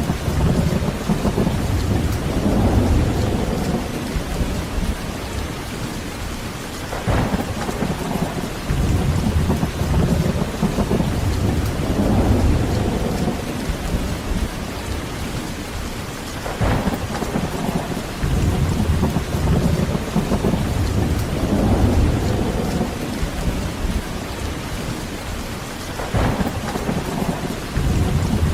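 Heavy rain falling steadily while thunder rumbles. A low rumble swells and fades about every nine seconds, and three brief sharp cracks come in between.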